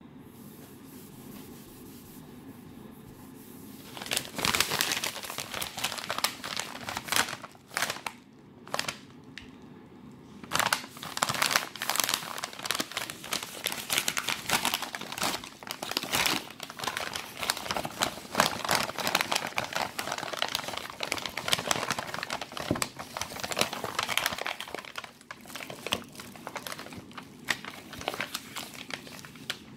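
Packaging crinkling and rustling as it is handled and unwrapped, starting about four seconds in and going on in dense irregular bursts with a couple of short pauses.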